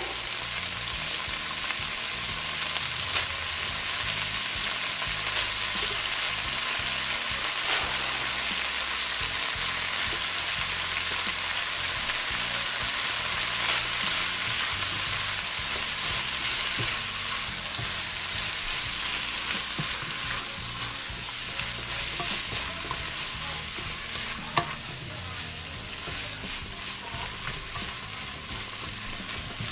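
Chicken gizzards, hearts and sliced chayote sizzling in a hot pot, stirred with a silicone spatula that now and then knocks sharply against the pan. The sizzle eases a little in the last third.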